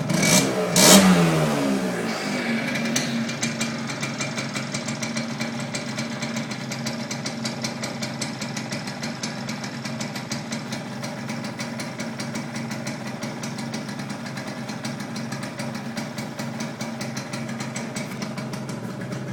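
Piaggio NRG scooter's two-stroke engine, bored to 80cc with a Malossi kit and running through a Giannelli exhaust, revved briefly about a second in, then settling to a steady idle.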